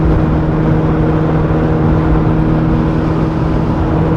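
Car engine and road noise while cruising at a steady speed: a constant, unchanging engine drone with no revving.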